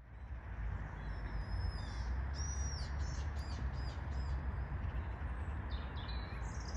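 Birds chirping in short high calls and trills, in two spells, over a steady low rumble of outdoor background noise.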